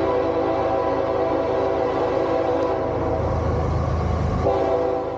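CSX freight locomotive sounding its horn, several tones together: one long blast that breaks off about three seconds in, then a second blast starting near the end, over the heavy rumble of the diesel locomotive and train.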